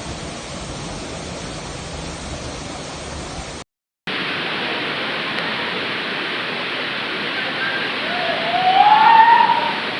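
Steady rush of water, which drops out for a moment a little past three and a half seconds in and comes back louder. Near the end a person's voice rises in one long call over it.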